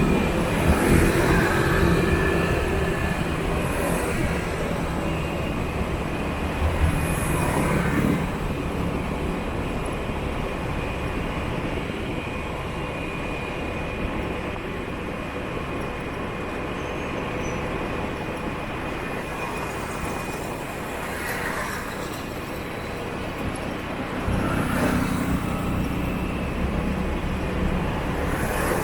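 Motorbike street traffic heard from a moving scooter: a steady hum of engines and road noise. The engine rumble is louder at the start and again near the end, as bikes pass close or speed up.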